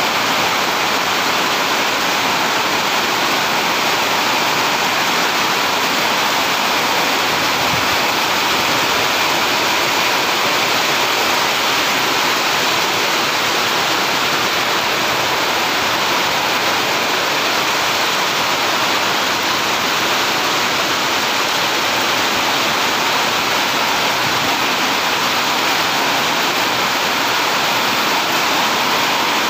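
Heavy rain pouring steadily onto corrugated sheet-metal roofs, a dense, even hiss.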